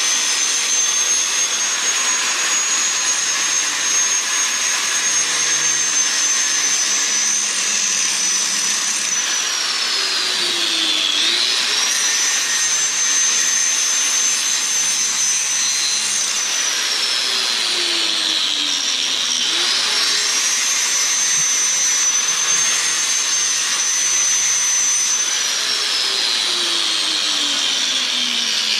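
Electric power saw cutting through a seized steel hydraulic line, its motor whining steadily. The whine drops in pitch under load and recovers twice, then drops again near the end.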